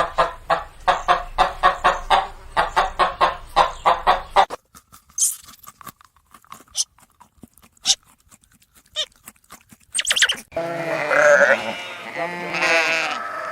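Farm animals bleating: long, wavering calls in the last few seconds. These follow a rapid run of short repeated calls at about four or five a second, then a few seconds of near quiet with scattered clicks.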